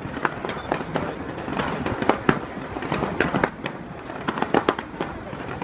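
New Year's fireworks bursting in a rapid, irregular barrage of bangs and cracks over a steady crackling rumble.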